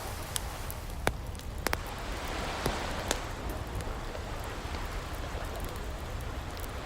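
Wood fire crackling, with about six sharp pops in the first half, over the steady wash of ocean waves.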